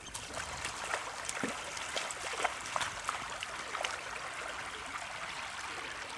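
Shallow water trickling and fizzing over beach sand, with many small crackling pops and clicks.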